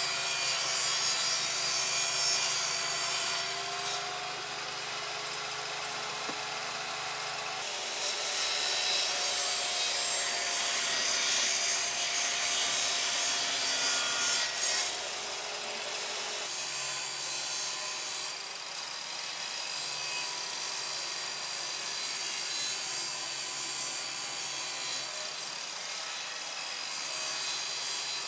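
Wood being sawn and rubbed with tools in several short takes, the sound changing abruptly where one take cuts to the next.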